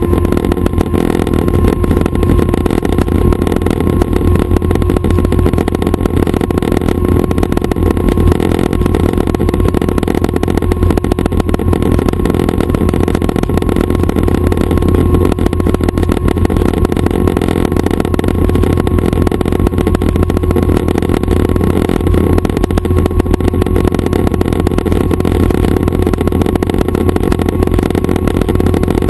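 Schweizer 269 light helicopter's four-cylinder Lycoming piston engine and rotor running steadily, a loud even drone with a strong low hum.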